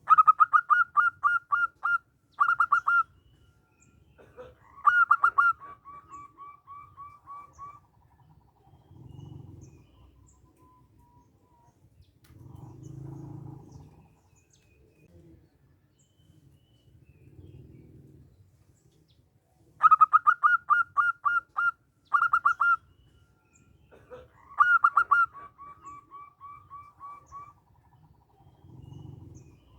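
Male zebra dove (perkutut) singing its staccato cooing song twice, the phrases about 20 seconds apart. Each phrase is a quick run of clipped coos followed by a slower run of lower notes.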